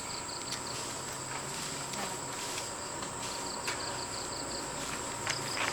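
Insects calling: a steady high drone with a few short trains of rapid chirps, and scattered light clicks.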